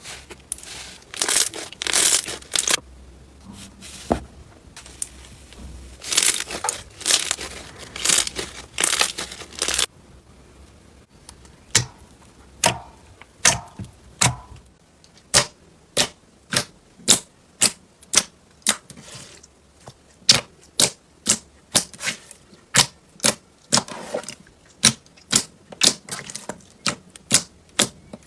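Slime being squeezed and worked by hand: crackling, tearing squishes for about the first ten seconds, then a steady run of sharp clicks or pops, about two a second.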